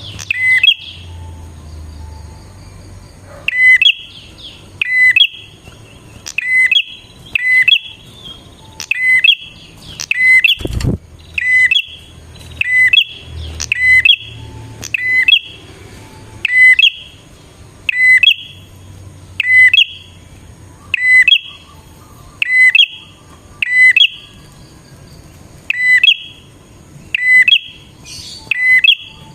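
Prinia (prenjak) calling persistently: a sharp, high, chipping call repeated about once a second, loud and close.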